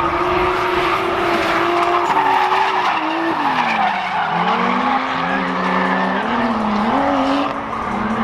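Drift cars in a tandem run, engines held at high revs, with continuous tire squeal. The engine pitch dips about four seconds in, then climbs back in steps as the throttle is worked.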